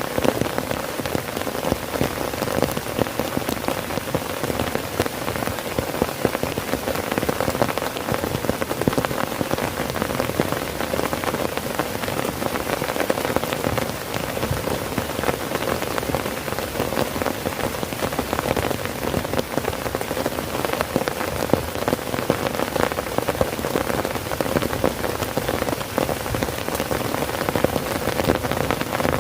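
Heavy rain falling steadily on a tent: a dense, even hiss of countless small drop hits on the fabric.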